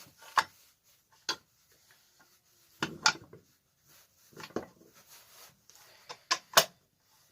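Irregular clicks and knocks of small metal engine parts and tools being handled on a workbench, with faint rubbing between them, during assembly of a small four-stroke engine.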